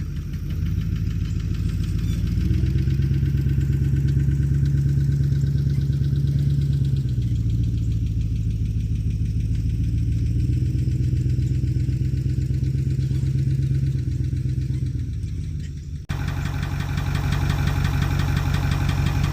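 Chevy pickup's engine pulling a heavy trailer load of dirt, its note rising and easing a few times as it works under load. Near the end it cuts off abruptly to a different engine running steadily.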